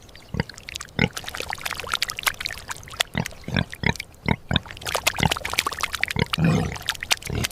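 Domestic pig grunting in a quick, irregular series of short grunts.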